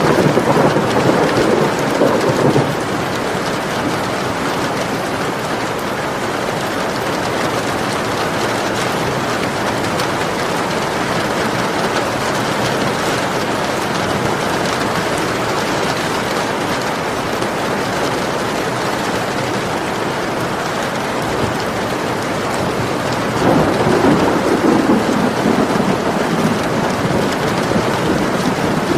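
Steady rain with two rolls of thunder, one right at the start and one about 24 seconds in, each lasting a few seconds.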